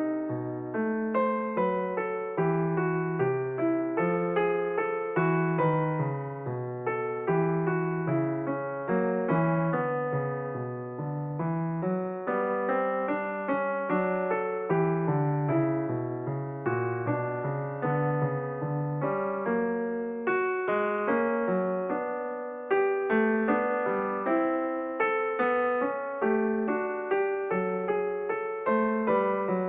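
Background solo piano music: a calm piece of evenly paced notes over a moving bass line.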